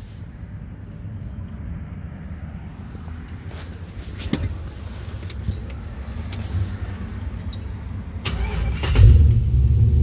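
Keys jangle at the ignition, then near the end the starter cranks briefly and the Nova's 6.0-litre LQ9 V8 with a stage 2 cam fires up about nine seconds in and keeps running loudly.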